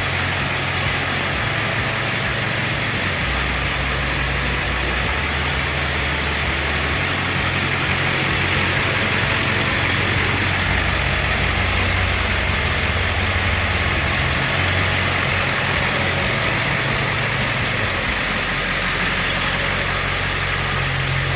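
2000 Ford F350's 7.3-litre Power Stroke V8 turbodiesel running steadily.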